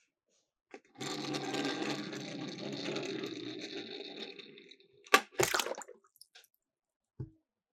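Miniature toy cars rolling down a plastic slope, a dense rattling rumble lasting about three and a half seconds that fades out. It is followed by two sharp impacts about five seconds in as they drop into the water, and a small click near the end.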